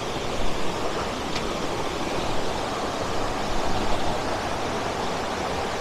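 Steady rush of a rocky river, its water running over stones and down small falls into pools.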